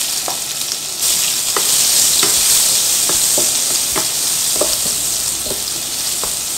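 Sliced shallots, garlic and red chillies sizzling in hot oil in a wok as the seasoning is sautéed, the sizzle growing louder about a second in. A wooden spatula strikes and scrapes the pan in regular stirring strokes about every half second.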